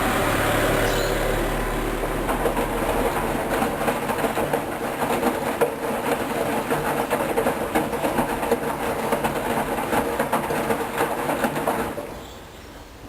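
Hoover DYN 10124 DP washing machine running mid-cycle, a steady hum with dense rattling. It stops abruptly about twelve seconds in, leaving only a faint background.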